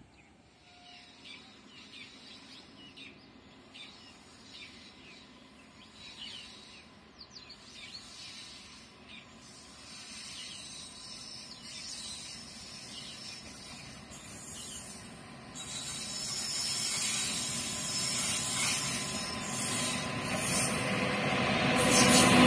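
Birds chirping in a quiet rural background, then an approaching electric-locomotive-hauled passenger train: its rumble and rail hiss come in suddenly about two-thirds of the way through and grow steadily louder as it nears.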